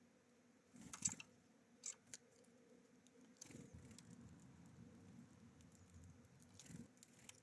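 A few faint, sharp taps and scuffles of small birds landing and pecking at a seed feeder, the loudest about a second in, with a low rumble through the second half.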